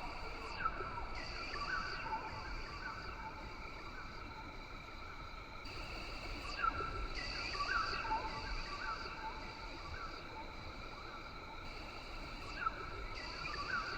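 Rainforest ambience: several steady high-pitched drones run on without a break while short chirping calls come again and again over them, with a low rumbling hiss underneath.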